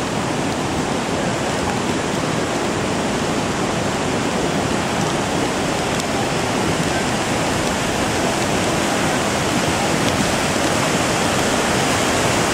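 Rain-triggered volcanic lahar, a thick flow of water, sand and boulders like cement mix, rushing down a river channel: a loud, steady roar like a jet engine, growing slightly louder toward the end.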